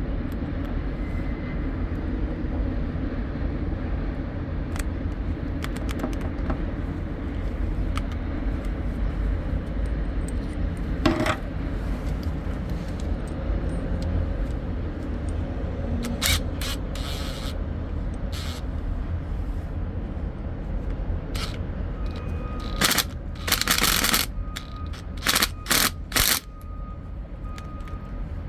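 Steady low rumble with scraping and clattering noises from handled objects, several short bursts, the loudest cluster near the end.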